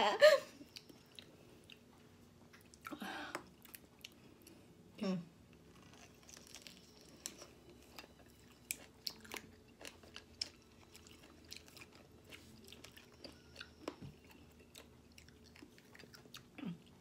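People chewing and sucking on raw lemon slices: scattered small wet mouth clicks and smacks. A few short low hums drop in pitch, about three seconds in, about five seconds in and near the end.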